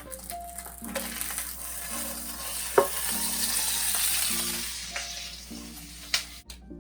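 Tortilla quesadilla frying in a pan, a hissing sizzle that swells to its loudest midway and then fades, with two sharp clicks about three seconds apart. Background music plays throughout.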